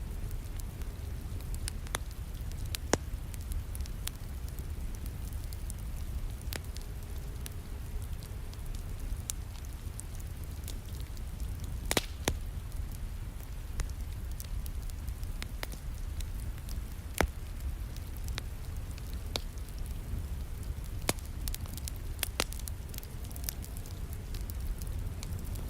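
Wood fire in a fireplace crackling, with sharp pops at irregular intervals over a steady low rumble, and rain falling steadily behind it.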